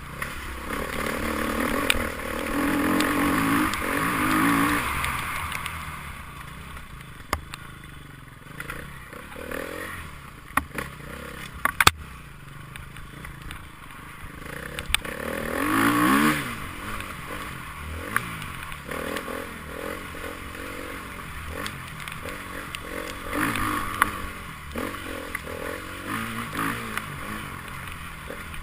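Enduro motorcycles passing one after another, each engine revving up as it comes close and fading away. The loudest pass comes near the start and another near the middle. A few sharp knocks are heard along the way.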